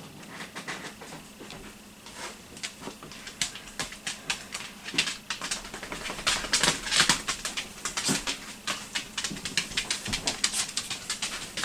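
Paper being handled: dense, irregular crackling and light tapping that gets busier and louder from about three seconds in.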